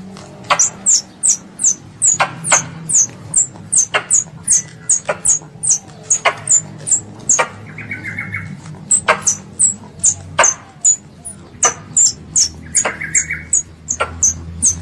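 Young squirrel calling for its mother: a rapid run of sharp, very high chirps, about three a second, each dropping steeply in pitch. Two short buzzy trills come about 8 and 13 seconds in.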